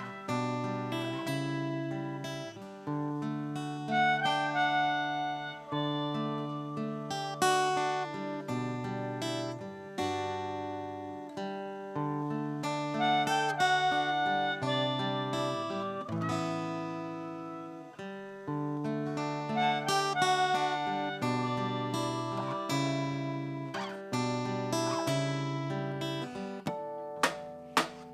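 Acoustic guitar playing an instrumental intro: picked notes ringing over a low bass line, with sharper strums coming in near the end.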